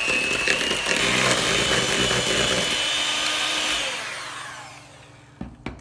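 Electric mixer running, beating butter, sugar, egg and vanilla together, with a steady high whine that winds down and stops about four seconds in. A short knock follows near the end.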